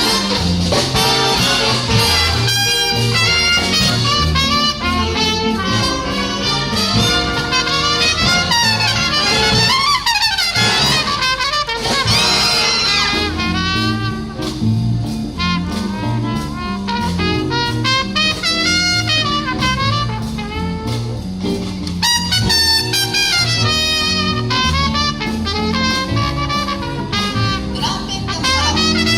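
Live jazz big band playing, with trumpets, trombones and saxophones over a walking bass line and drums.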